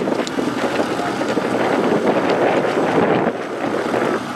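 Engine of a rock crawler buggy running hard as it climbs. The sound builds and then eases off a little over three seconds in.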